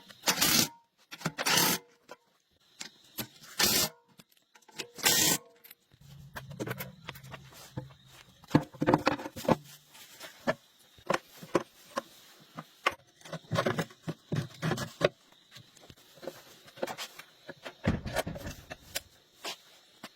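Irregular clicks, scrapes and knocks of handling work, with several louder sharp strokes in the first five seconds and a few low thuds later.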